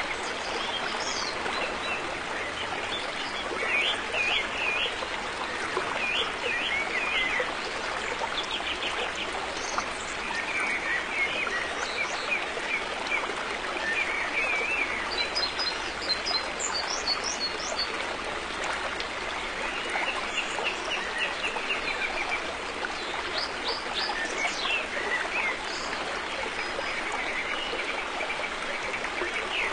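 River water flowing with a steady rush, while small birds chirp and call again and again over it.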